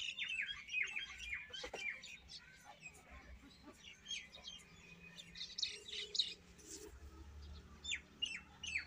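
Birds chirping: many short, quick, falling chirps, dense at first, more scattered in the middle, with another flurry near the end.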